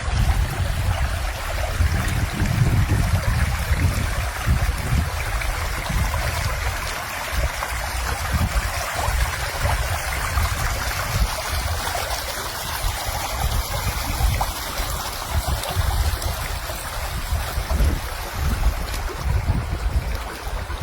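Rainwater runoff rushing during a heavy downpour: a steady, loud wash of flowing water, with an uneven low rumble underneath.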